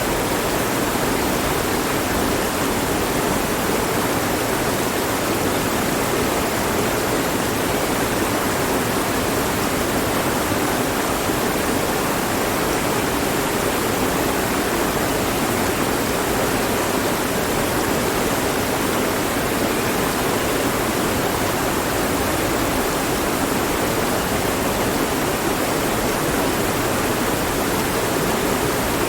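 Mountain stream flowing over rocks, a steady rushing of water.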